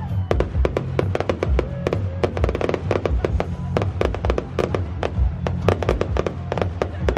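A fireworks display going off: a rapid, uneven string of sharp bangs and crackles, several a second, with music playing underneath.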